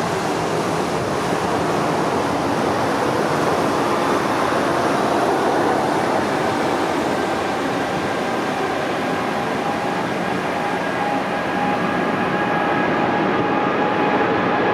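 Jet engines of a Boeing 777-200ER at takeoff thrust: a steady, broad roar. A steady whining tone comes up over it about six seconds in and holds.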